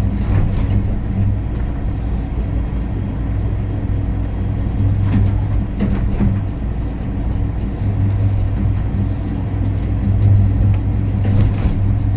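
Skyrail suspended people-mover car running along its guideway: a steady low rumble and hum that swells and fades, with a few faint clicks.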